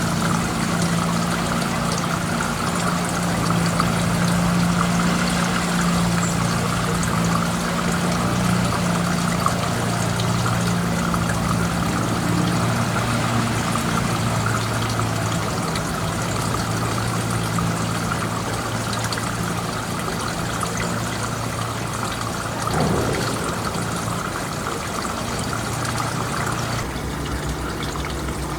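Steady rushing noise like running water, with a low hum underneath and a brief louder swell a little before the end.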